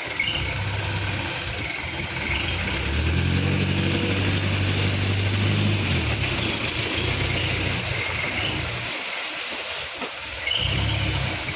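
Mitsubishi Canter dump truck's diesel engine running and revving up about three seconds in, holding the higher speed, then dropping away around nine seconds before picking up again near the end.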